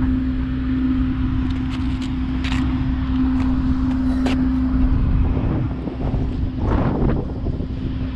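Wind rumbling on the microphone over a steady engine hum that fades out about five seconds in, with a few sharp taps.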